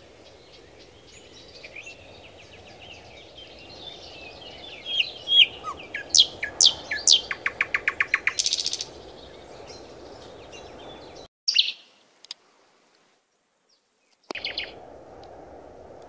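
Songbirds chirping and singing over a steady low background noise, with loud downward-sliding whistles and a fast trill a little past the middle. The sound cuts out suddenly for about three seconds, apart from a couple of short calls, then the birds resume near the end.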